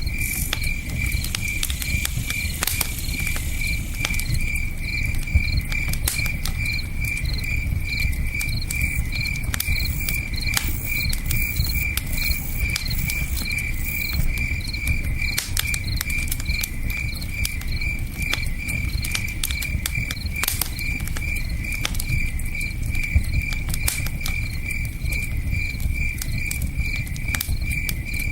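Campfire crackling with scattered sharp pops, over the low steady rush of a river, while a cricket chirps in an even, unbroken rhythm.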